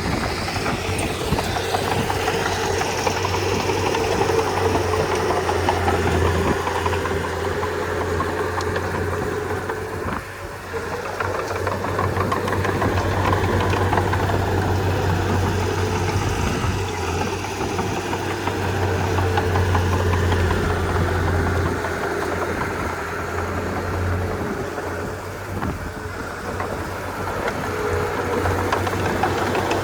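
Komatsu D31P bulldozer's diesel engine running steadily as the machine works, with a brief dip in level about ten seconds in.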